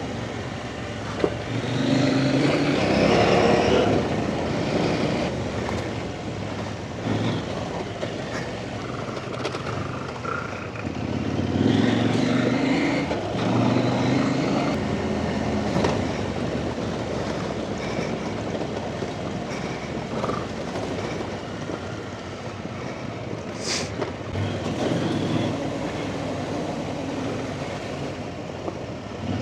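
Off-road trail motorcycle engine running under varying throttle, swelling about two seconds in and again around twelve seconds, over steady riding noise. A single sharp knock sounds later on.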